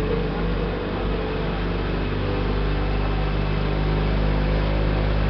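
Speedboat engine running steadily at cruising speed, a constant even drone over a steady rushing noise.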